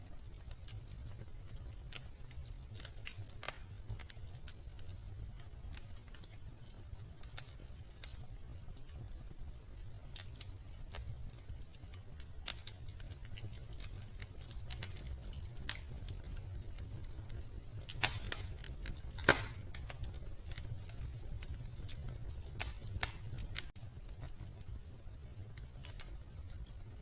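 Wood fire crackling in a fireplace: scattered sharp snaps and crackles over a low steady rumble, with two louder pops about two-thirds of the way through.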